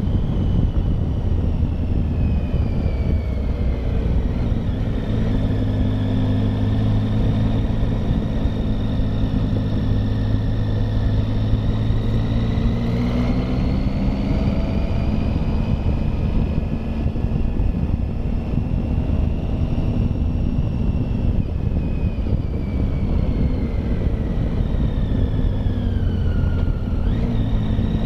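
Triumph Tiger motorcycle engine running under load on a climb, its note slowly rising and falling with the throttle, dipping and climbing again near the end, over a low rumble of wind.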